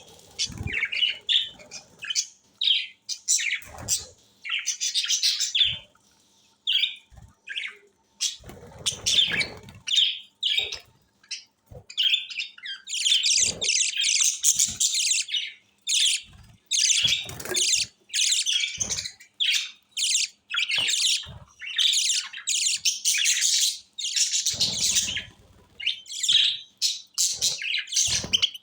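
Small pet parrots chattering with rapid, high chirps and squawks that are nearly continuous through the middle. A few low thuds come through now and then.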